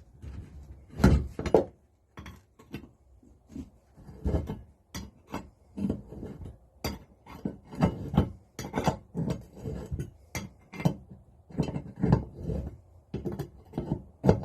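Hand tools and loose metal engine parts clinking and knocking irregularly as a Lister D engine is dismantled, with the loudest knocks about a second in.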